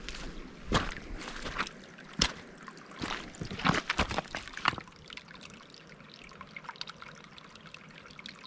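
Running water trickling steadily. Footsteps crunch over it for the first five seconds, then stop, and the water goes on alone.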